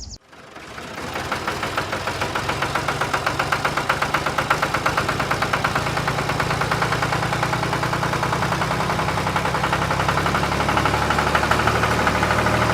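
An engine running with a fast, even chugging beat. It builds up over the first couple of seconds, then runs on steadily.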